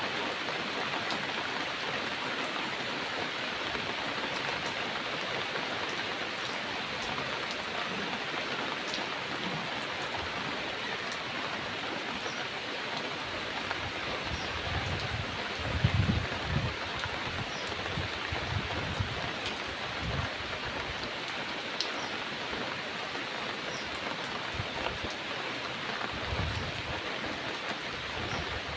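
Heavy rain falling steadily, a dense even hiss, with a few short low rumbles, the loudest about halfway through.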